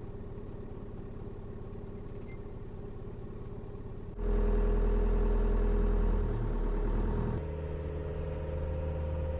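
Car engine running. About four seconds in it suddenly gets much louder and deeper for roughly three seconds, then settles to a steadier, quieter running note.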